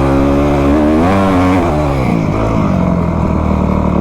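Isuzu D-Max pickup's engine revving as it drives through soft beach sand: the pitch climbs about a second in, drops back, wavers, then holds steady.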